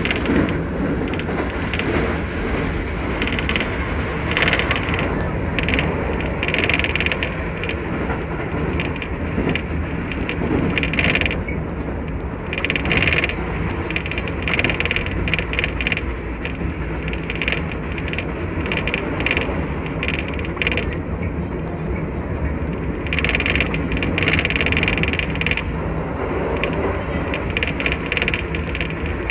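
Keisei 3000 series electric train running at speed, heard from inside the front cab: a steady rumble and rattle of wheels on rail. A higher-pitched sound swells for a second or two several times.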